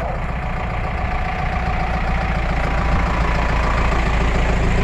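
A motor vehicle's engine idling, with a steady low rumble that grows slightly louder over the few seconds.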